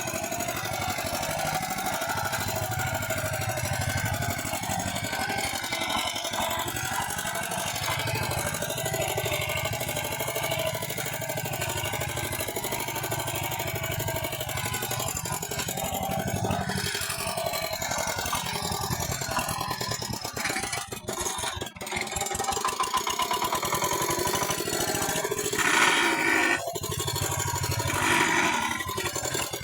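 Walking tractor engine running steadily, with a brief drop in level about two-thirds of the way through and two short rises near the end.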